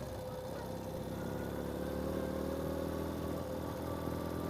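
Ural sidecar motorcycle's air-cooled boxer twin running steadily at low speed, picking up slightly about a second in.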